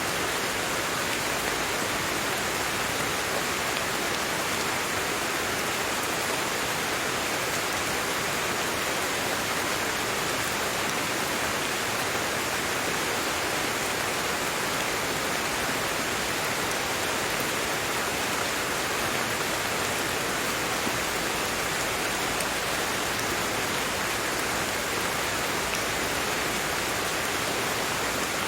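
Steady rain falling, an even unbroken hiss with no single drops or thunder standing out.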